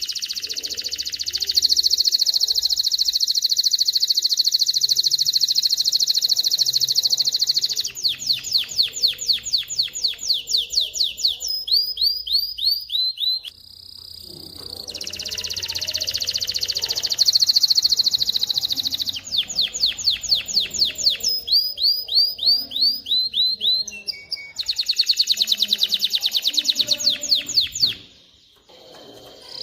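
Male canary singing: long, fast trills alternating with runs of slower repeated notes and falling whistles. The song breaks off briefly near the middle and again near the end.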